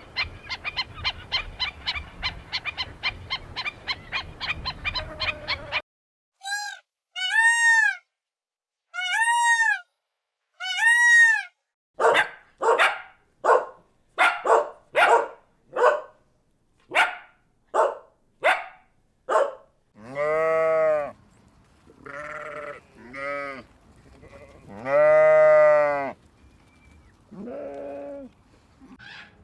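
A string of different animal calls: first a fast run of short pulsing calls, then four arched whistle-like calls, then a quick series of short harsh calls, and finally several drawn-out bleats, the loudest about three-quarters of the way through.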